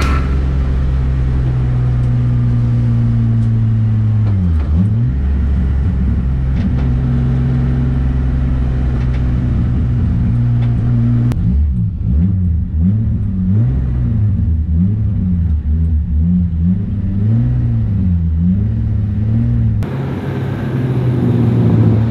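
BMW E36 M3's S50 straight-six engine running hard on a race track, its pitch falling sharply and climbing again about four seconds in, then rising and falling over and over through gear changes and corners in the second half.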